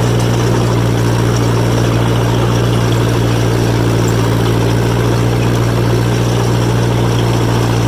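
John Deere 1010 crawler's engine running at a steady high speed in fourth gear while the machine turns. It holds one unchanging pitch throughout.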